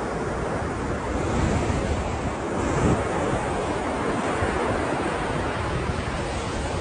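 Ocean surf: waves breaking and washing in a continuous rush, swelling slightly a couple of times, with wind buffeting the microphone.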